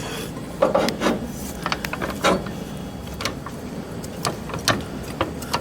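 Irregular clicks, knocks and scraping from hand work with jacking tools on a car's steel frame, over a steady low hum.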